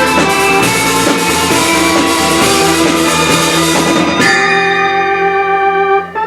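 Live rock band playing drums and guitars; about four seconds in the drums and cymbals stop and a final held chord rings out, then cuts off just before the end.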